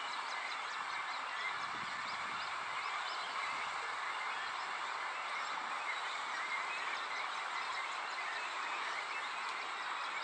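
Birds calling, many short calls overlapping over a steady background hiss.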